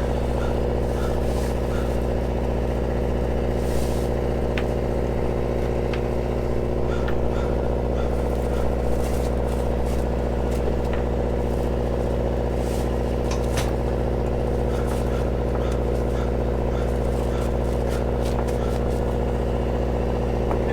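An engine running steadily at one speed, a constant drone, with scattered light clicks and knocks over it.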